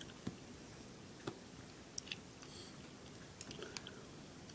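A few faint, short clicks and taps, scattered, with a small cluster near the end.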